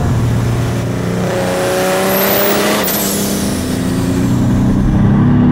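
Mercedes OM606 straight-six turbodiesel in a BMW E28, heard from inside the cabin, accelerating hard with its pitch climbing and a high whistle rising with it. About three seconds in the pitch and the whistle fall away as the revs drop, then the engine settles into a lower, steady drone.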